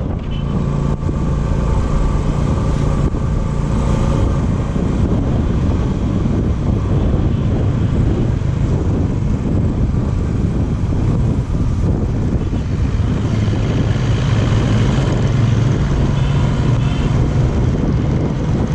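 Royal Enfield Bullet motorcycle's single-cylinder engine running steadily while riding, with wind rushing over the microphone.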